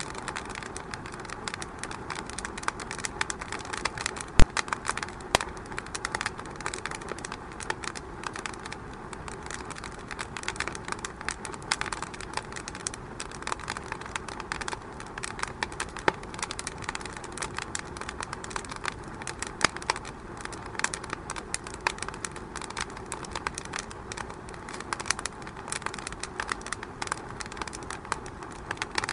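Wood fire crackling in a fireplace: rapid, irregular pops and snaps over a soft steady hiss, with one sharp louder pop about four seconds in.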